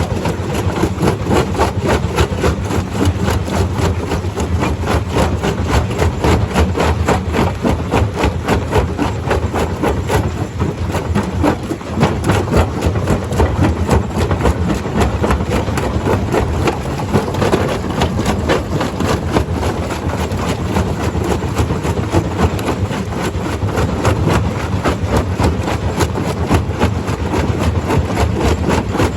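Stone crusher running steadily: a heavy engine drone under a dense, continuous clatter of rock being knocked about and broken.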